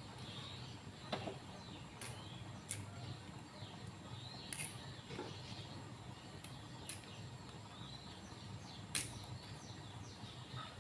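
Small birds chirping on and off, with short falling chirps over a low steady hum and a handful of sharp clicks scattered through.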